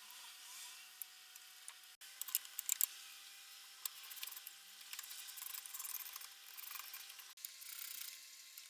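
Small sharp clicks and light scraping from parts being handled by hand, with the loudest cluster of clicks a couple of seconds in; the background changes abruptly twice, as at edit cuts.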